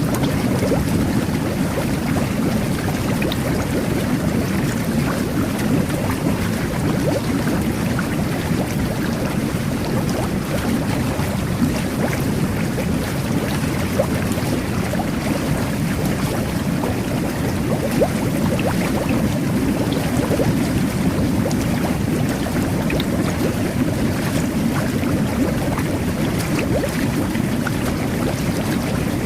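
Jet bath (whirlpool tub) running: a steady churning of water and air bubbles from the jets, with small pops and splashes scattered through it.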